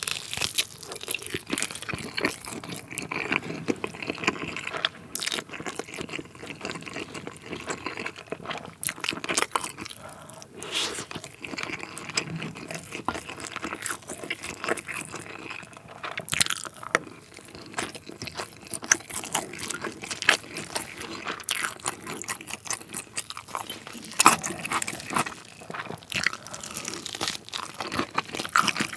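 Close-miked biting, crunching and chewing of a crispy, sauced fried chicken drumstick, with many sharp, irregular crunches throughout.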